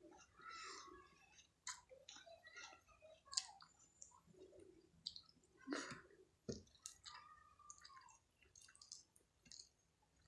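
Quiet, close-miked mouth sounds of a person chewing food: irregular wet smacks and small lip and tongue clicks.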